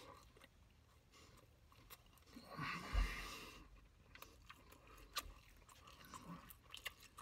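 A person biting into and chewing a hot pastrami sandwich, with one louder bite and a dull thump about three seconds in, then faint, wet chewing clicks.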